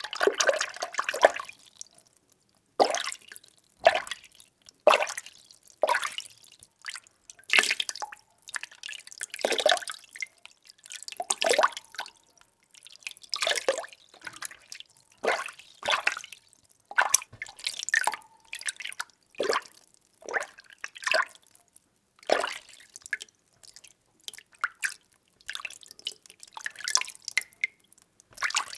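Water being stirred by hand, a run of separate short swishes and sloshes about once a second, each with small drips and splashes.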